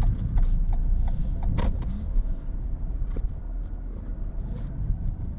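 Car running, heard inside the cabin as a steady low rumble, with a light regular ticking of the turn signal about two and a half times a second that fades out after a couple of seconds.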